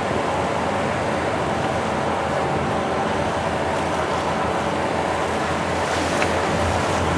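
Steady engine drone under a constant rush of wind and waves.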